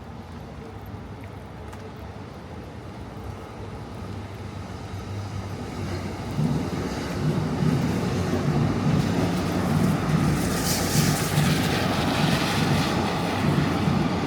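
A train passing close by: its rumble builds from about four seconds in and is loud from about six, with a pulsing low clatter and a burst of high hiss near the middle.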